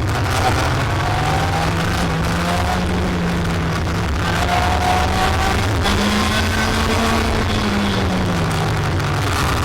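Racing kart engine running at speed, its drone slowly rising and falling in pitch as it speeds up and slows through the corners, with faint higher whines gliding above it.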